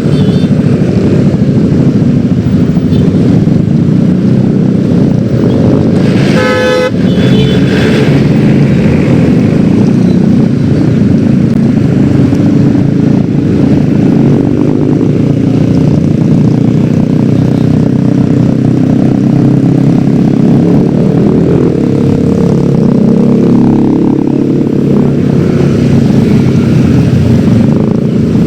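Yamaha X-Ride 113cc single-cylinder scooter engine running steadily while riding. A vehicle horn toots once, briefly, about six seconds in.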